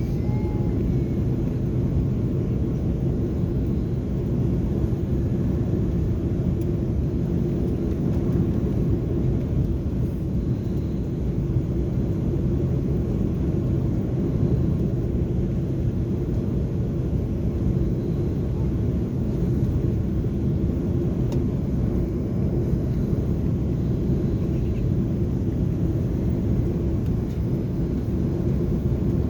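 Steady low rumble of cabin noise inside an Airbus A330-300 airliner, from the engines and airflow, with no thumps or changes.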